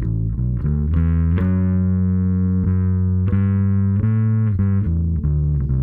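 Fender Custom Shop 58 electric bass strung with La Bella flatwounds, played through a Pork & Pickle overdrive pedal: a short phrase of about eight held, distorted bass notes.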